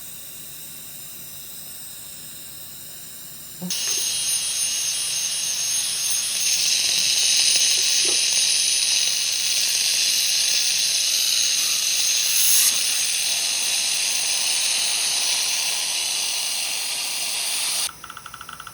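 Dental chairside equipment hissing, a loud steady high hiss of air that starts suddenly a few seconds in and cuts off abruptly near the end.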